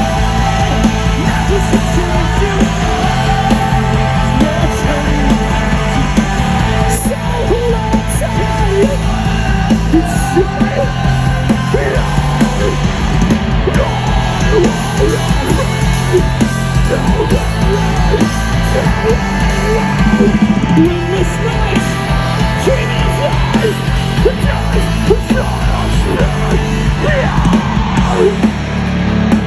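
Live rock band playing loud, with distorted guitars and drums and shouted vocals.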